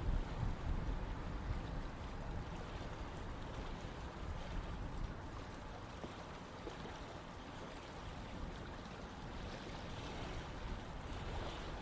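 Running water, a stream or river flowing steadily, with a deep low rumble, easing slightly midway and swelling again near the end.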